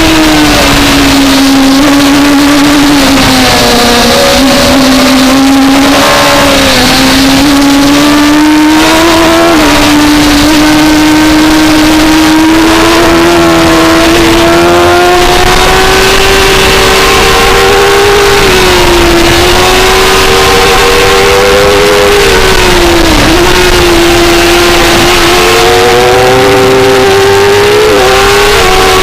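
A 2004 Suzuki GSX-R600's inline-four engine running at high revs, heard from on board at racing speed. Its pitch holds high with several brief dips and recoveries, over a steady rush of noise.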